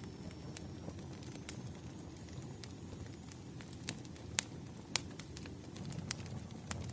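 Campfire crackling: a steady low rumble of burning with scattered sharp pops, the loudest a little past four and again five seconds in.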